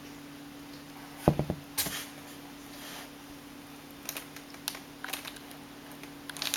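Three-week-old kittens moving about: a dull thump a little over a second in, then scattered light ticks and scratches of small paws and claws, over a steady low hum.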